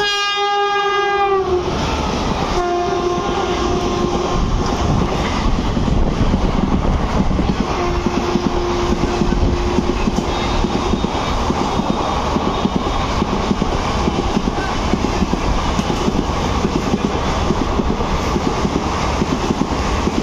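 An Indian Railways WAP-7 electric locomotive hauling an express train through a station at speed sounds its horn: a first long blast whose pitch dips at its end, then two more lower-pitched blasts, the last about three seconds long. Throughout, the passing coaches make a loud steady rumble on the track.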